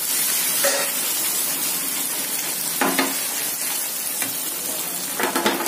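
Egg omelette frying in a non-stick pan on a gas stove: a steady sizzling hiss.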